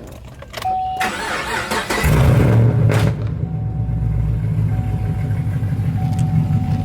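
A Dodge Hellcat's supercharged V8 starting up, loud: a short beep, a second or so of cranking, then the engine catches with a burst of revs about two seconds in and settles into a steady idle.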